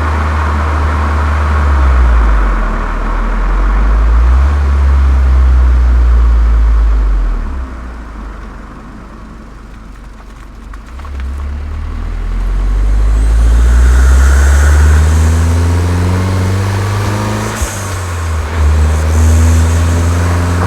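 Volkswagen Golf 7 GTI's turbocharged 2.0-litre four-cylinder, fitted with a Cox aftermarket exhaust and K&N intake, pulling hard with its note rising in pitch and dropping back at gear changes. Around the middle it eases off and goes quieter, then pulls again with a rising note, a sharp click near one shift toward the end.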